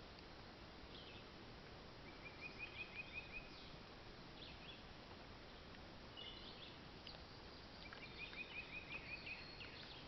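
Faint birds calling, with two quick runs of about eight short even chirps and scattered single chirps, over quiet outdoor background noise.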